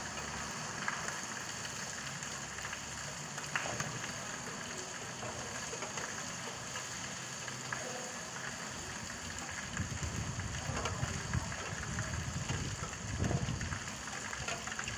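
Steady rain falling, with scattered individual drops; a low rumble swells in and out during the second half.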